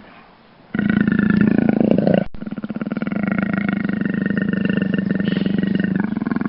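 A large animal's long, pulsing growling roar, starting a little under a second in, cut off abruptly about two seconds in and then carrying on.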